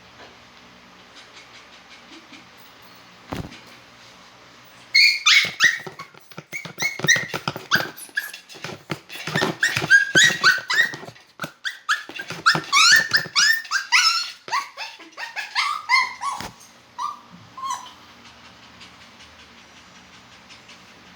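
Poodle yipping and whining in a fast run of short, high cries, many falling in pitch, starting about five seconds in and lasting about thirteen seconds. A single knock comes shortly before, over a faint low hum.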